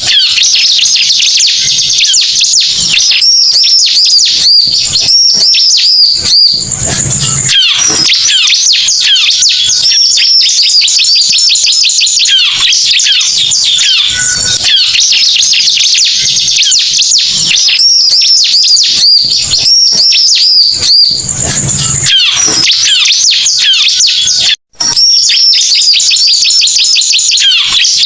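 Recorded lure call of the ciblek (bar-winged prinia), playing loudly as a non-stop string of fast, high chirps and trills, with a passage of repeated wavy notes recurring about every 14 seconds as the recording loops. It breaks off for a split second about three-quarters of the way through.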